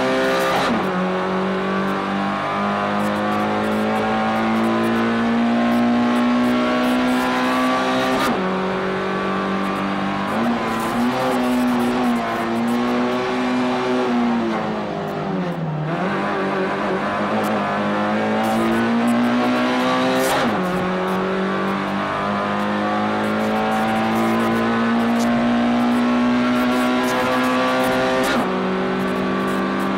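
Racing car's engine heard from inside the cabin under hard acceleration. The revs climb slowly in each gear and drop sharply at upshifts shortly after the start, about a quarter of the way in, two-thirds through and near the end. Around the middle the revs fall away and then build again.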